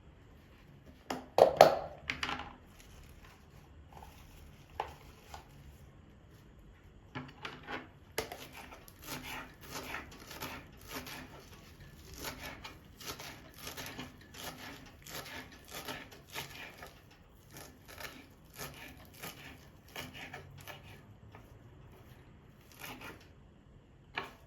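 Kitchen handling sounds: a loud clatter about a second in, then a steady run of short strokes about two a second, and a single sharp knock near the end.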